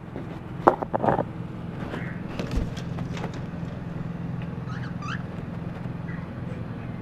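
A cage being handled, with a few sharp knocks and rattles about a second in, over a steady low hum. Around five seconds in come two short rising chirps from the cockatiels.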